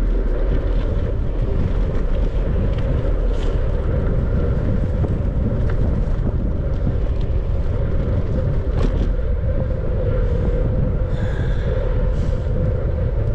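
Steady wind rush and low rumble on a bicycle-mounted or handheld microphone while riding, with tyre and road noise and a few light clicks and rattles.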